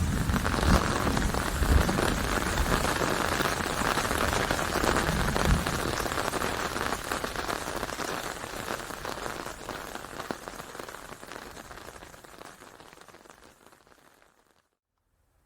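Heavy rain falling on a hard surface, a dense hiss of many small drop impacts with low rumbles in the first few seconds. It fades away steadily over the second half to silence just before the end.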